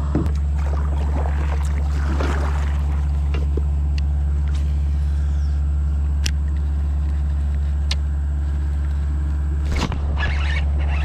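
A steady low hum, with a few sharp clicks and brief rustling noise scattered through it.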